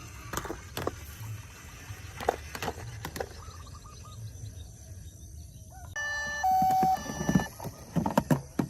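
Toy vehicles being handled, with scattered plastic clicks and knocks. About six seconds in, a toy's electronic sound plays two steady tones, the second one louder, for about a second, followed by more knocks.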